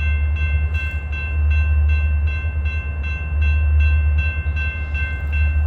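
Electronic railroad grade-crossing bell ringing in a rapid even rhythm, nearly three strikes a second, over a steady low rumble.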